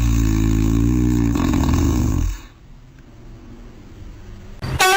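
A loud, low-pitched, drawn-out vocal sound that stops about two seconds in. A short, bright horn-like tone starts near the end.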